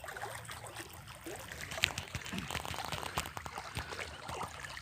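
Water sloshing and trickling with small splashes, as a person wades through crotch-deep floodwater.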